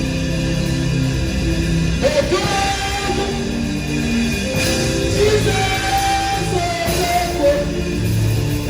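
Gospel worship music with singing: sustained sung notes over steady instrumental accompaniment.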